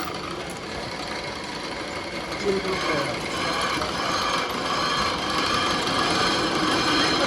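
Workshop machinery running steadily, with faint voices in the background.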